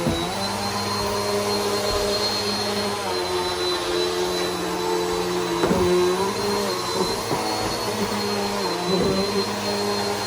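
Bissell PowerForce Helix upright vacuum cleaner running steadily, with a thin high whine over the motor hum; its pitch dips briefly a few times, most clearly about six seconds in.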